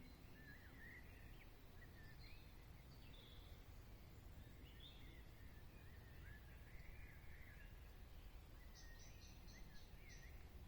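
Faint songbird twittering and warbling in the woods, with a quick run of short, high, evenly repeated notes near the end, over a low steady rumble.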